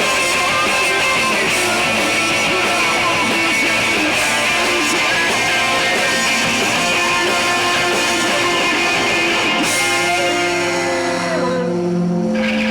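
Live rock band playing with distorted electric guitars and strumming; about ten seconds in the dense playing gives way to a few long held, ringing notes.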